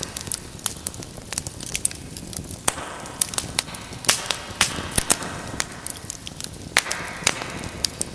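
Wood fire crackling in a fireplace: irregular sharp pops and snaps over a steady low rumble of flames, with brief hissing spells.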